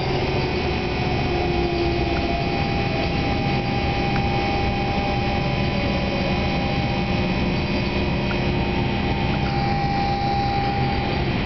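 Inside an NJ Transit Arrow III electric multiple-unit car on the move: a steady rumble of wheels and running gear with several whining tones over it, some slowly falling in pitch as the train slows into the station.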